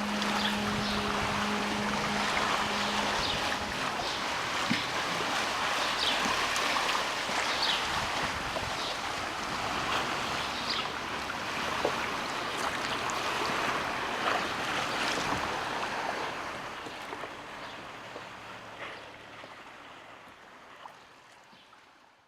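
Sea water splashing and lapping, with many small irregular splashes and wind on the microphone. A steady low hum is heard for the first few seconds, and the whole sound fades out gradually over the last several seconds.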